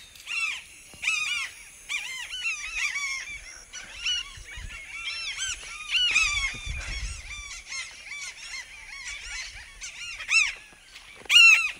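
A flock of birds calling over and over: many short calls, each rising then falling in pitch, often overlapping, with the loudest near the end.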